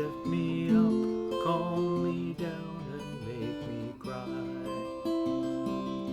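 Acoustic guitar strumming the instrumental ending of a folk song, with sustained chords and a wavering higher melody line over them.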